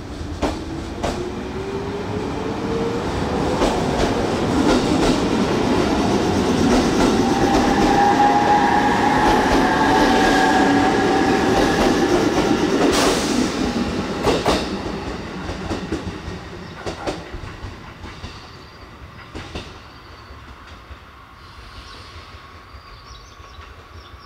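A 719 series electric train running past on the rails. A whine rises in pitch over the first few seconds, the rumble builds to a peak in the middle and then fades away, and there are sharp clacks from the wheels over rail joints.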